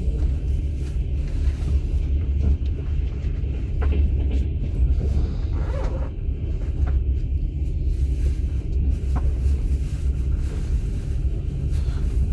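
Steady low rumble of a moving passenger train heard from inside a platskart sleeping carriage, with a few faint clicks and creaks from the carriage.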